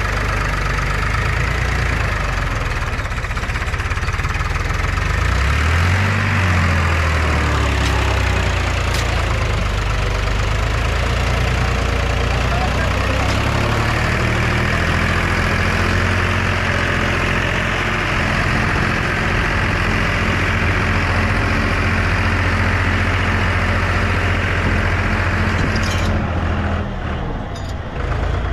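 Diesel engine of a JCB 3DX backhoe loader running steadily, with its engine speed dipping and rising about six seconds in. The sound changes abruptly near the end.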